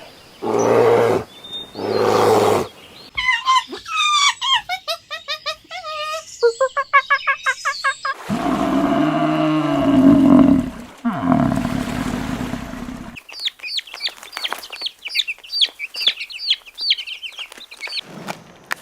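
A run of different animal calls one after another: two short low calls, then busy high calls with rapid repeats, a long low call, and finally quick high chirping.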